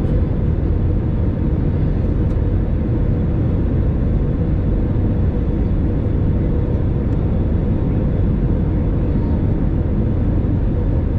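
Cabin noise inside an Airbus A320neo in flight: a steady drone of engines and rushing air, heaviest in the low end, with a faint steady hum above it.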